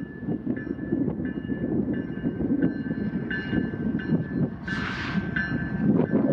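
Freight train cars rolling through the yard, with a short high squeal repeating about every two-thirds of a second and a brief hiss about five seconds in. Heavy wind noise on the microphone.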